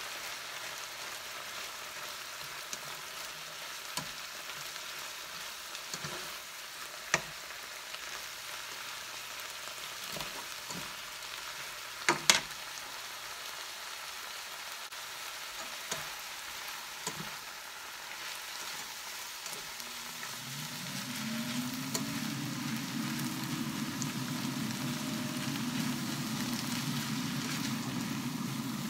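Shredded cabbage, carrots and ground chicken sizzling in a nonstick frying pan, stirred with a slotted spatula that clicks and scrapes against the pan now and then, the sharpest knocks about twelve seconds in. About two-thirds of the way through, a low hum comes on, rising briefly in pitch before holding steady.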